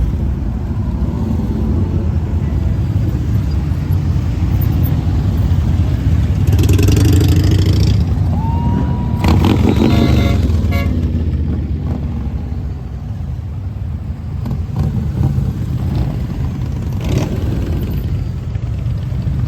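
Motorcycle engines running in a group ride, a steady low rumble with louder passes twice, about a third of the way in and again near the middle.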